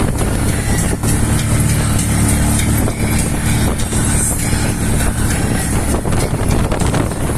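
A motor vehicle's engine running steadily while driving, with a constant low hum and rushing noise.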